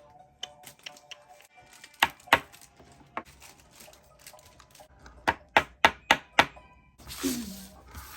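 Sharp taps or knocks on a hard surface: two about two seconds in, then five in quick succession about three a second, followed near the end by a burst of rustling.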